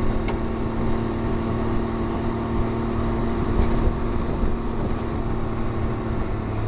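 Can-Am Ryker Rally Edition's three-cylinder Rotax engine running at a steady speed while riding, with wind and road noise.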